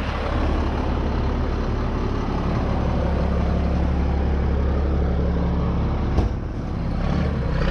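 GMC C8500 tandem dump truck's diesel engine running at low speed with a steady rumble. There is a single sharp knock about six seconds in, after which the sound briefly eases.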